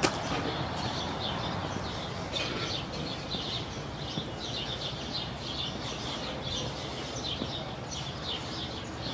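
Small birds chirping rapidly, several short high chirps a second, over steady low background noise.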